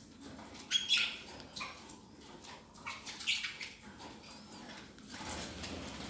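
Short squawky calls from a cockatiel, a couple of them about a second in and another a little past the middle.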